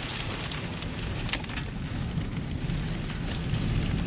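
Severe wind, near 90 mph, driving sand and debris against a vehicle: a steady rush of noise with a low rumble, a constant patter of grit striking the body and glass, and a few sharper hits.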